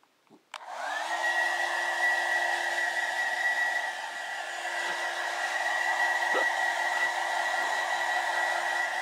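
Handheld hair dryer switched on with a click about half a second in, spinning up quickly to a steady whine over a rush of blowing air.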